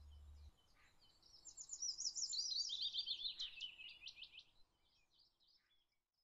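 Songbird singing a fast trill of rapid repeated notes that steps down in pitch, with faint scattered chirps around it. A low hum stops about half a second in, and the birdsong fades out near the end.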